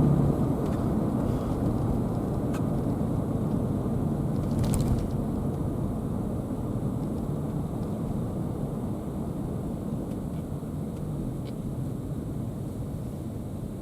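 Car driving on the road: a steady rumble of road and tyre noise that gradually gets quieter, with a brief click about five seconds in.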